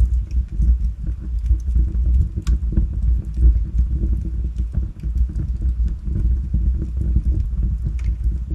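Wood fire burning in a fireplace: a steady low rumble of flame with scattered crackles and small pops, a couple of sharper pops about two and a half seconds in and near the end.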